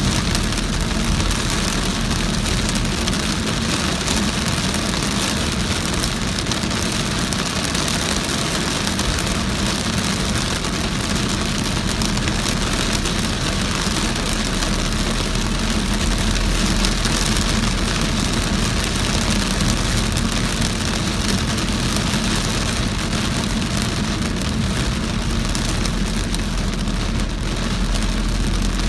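A car driving through heavy rain on a wet road: rain falling on the car and tyres on the wet surface with the engine underneath, an even, unbroken noise.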